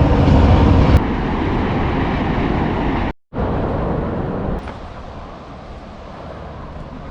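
Train passing on the tracks below, a steady, even noise just after its horn has ended. The noise cuts out for a moment about three seconds in and falls to a lower level at about four and a half seconds.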